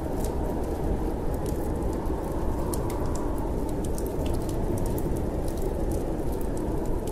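Wood fire crackling, with frequent small sharp pops, over a steady low rush of storm wind.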